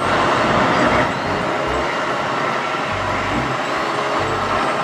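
Steady noise of a motor vehicle running, cutting in suddenly and holding at an even level, with a low pulsing tone underneath.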